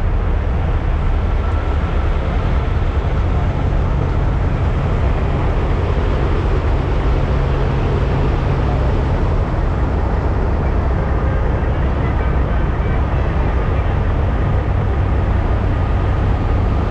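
Semi-truck diesel engines running with a steady, heavy low rumble.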